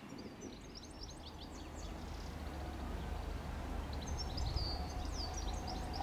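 Small birds chirping in two quick runs of short, high notes, over a low steady rumble that slowly grows louder.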